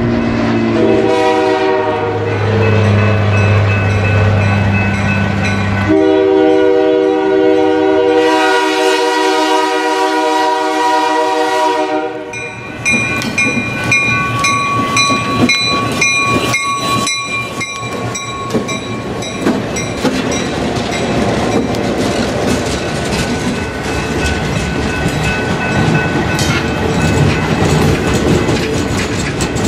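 A diesel locomotive sounds its air horn on the approach to a grade crossing, ending in a long blast that cuts off about twelve seconds in. A bell then rings rhythmically as the locomotive passes, and the bilevel passenger cars roll by with wheels clattering over the rails.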